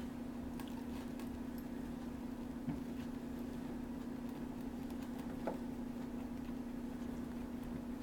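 A steady low hum, like an appliance or motor running, with a couple of faint clicks.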